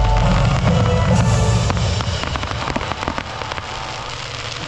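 A dense volley of gold crackling fireworks: a rapid, busy crackle with low rumbling bursts, thinning out and fading over the last couple of seconds.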